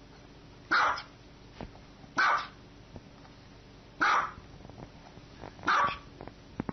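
A small white dog barking four times: short single barks spaced evenly, about one every one and a half to two seconds.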